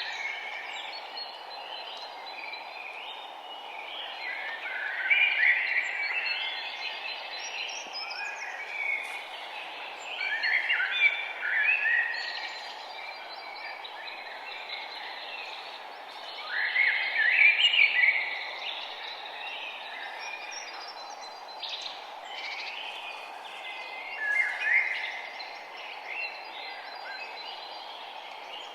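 Songbirds singing in short, complex phrases that come every few seconds, over a steady background hiss.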